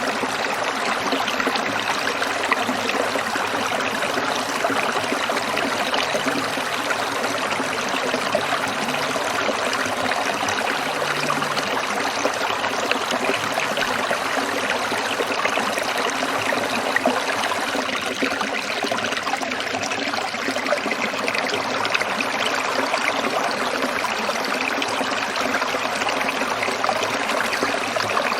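Shallow stream trickling over stones: a steady, even rush of flowing water with fine splashing.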